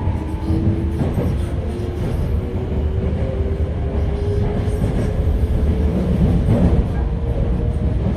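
Inside a Toei 5300 series electric train car pulling away: a traction motor whine climbing slowly and steadily in pitch over the rumble of the wheels on the rails. The uploader labels this car an odd-sounding car.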